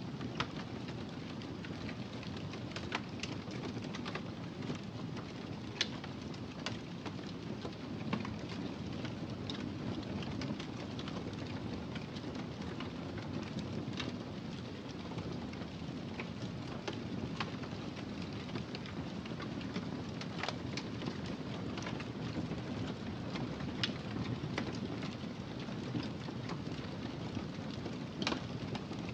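Fireplace fire crackling: a steady low rumble of flames with scattered sharp pops and snaps.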